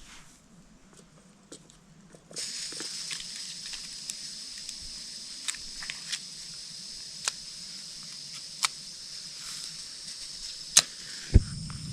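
Camp stove burner lit about two seconds in and then burning with a steady hiss. Scattered sharp clicks run through it, with two louder knocks near the end.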